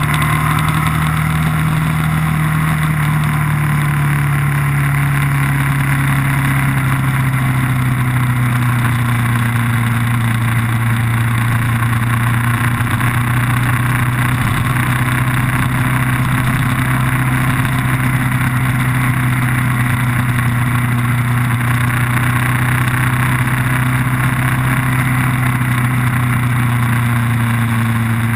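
A vehicle engine running at a nearly constant speed, its note held steady and sinking very slowly lower.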